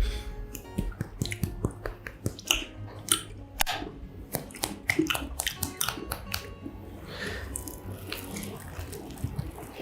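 Close-miked biting and chewing of a fried mozzarella corn dog: a run of sharp, crisp crunches from the batter crust, easing into softer chewing about seven seconds in.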